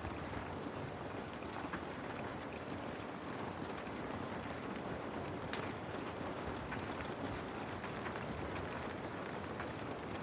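Steady rain pattering on a window, an even hiss with individual drops ticking here and there.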